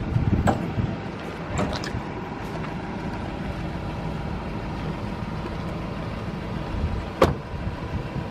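A motor vehicle engine running steadily at idle, with a few light clicks and one sharper click about seven seconds in.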